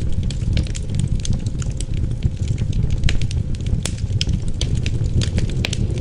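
Wood fire crackling, with frequent irregular sharp pops and snaps, over a steady low rumble of wind.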